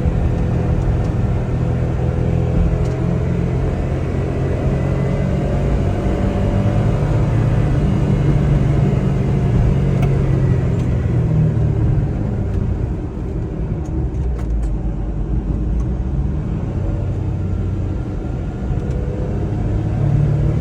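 Suzuki Carry DB52T kei truck's small three-cylinder engine running under way, with steady road noise; the engine note eases off briefly about two-thirds through and picks up again near the end.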